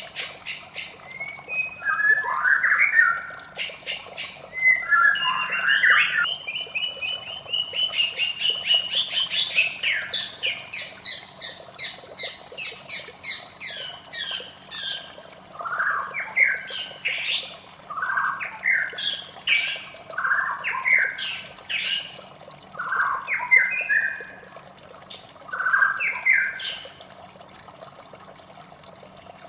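White-rumped shama singing a varied song of whistled phrases, fast runs of repeated notes and sharp clicks, over a steady hiss of running water; the song stops near the end.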